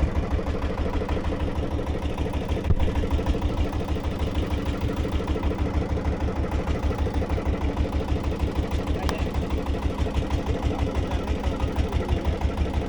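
Engine running steadily at low speed with an even chugging beat.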